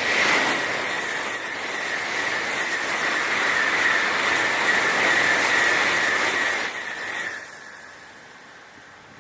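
A Tokaido Shinkansen N700-series bullet train passing at speed. A sudden rush of noise with a steady high whine lasts about seven seconds, then fades away.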